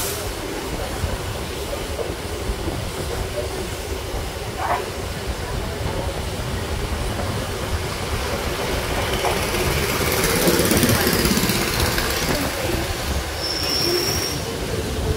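MMTS electric local train running along the rails, heard from an open coach doorway: a steady rumble and rush of wheels on track that swells about two-thirds of the way through, with a brief high squeal near the end.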